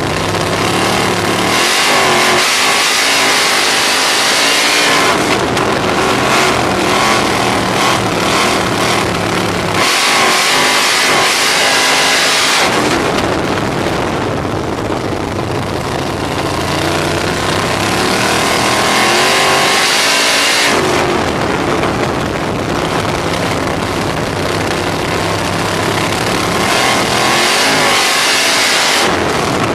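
On-board sound of a 305 sprint car's small-block V8 racing lap after lap, the engine note rising and falling in a cycle that comes round about every nine seconds, with loud wind rush through the stretches of high revs.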